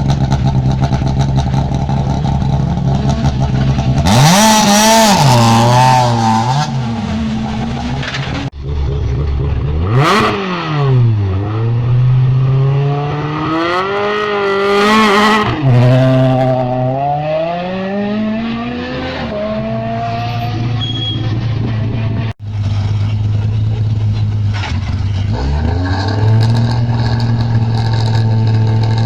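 Rally car engines at a stage start line, idling and then revved hard several times, the pitch climbing and falling back to idle. The sound breaks off abruptly twice, about a third of the way in and again after two thirds, as one car's run cuts to the next.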